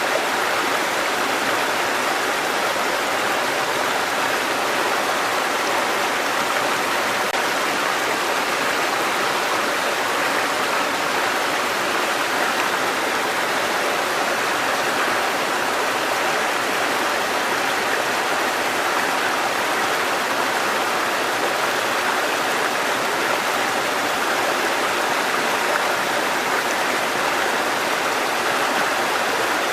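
Mountain stream water cascading over rocks, a steady rushing with no breaks or changes.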